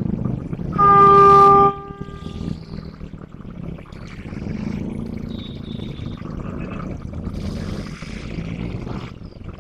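Diesel locomotive horn giving one short toot of about a second on a single steady note, over the low rumble of the locomotive's diesel engine running.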